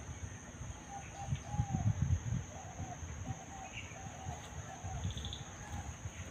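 A bird calling in a run of short, repeated notes of the same pitch, over a steady high insect drone and a low rumble.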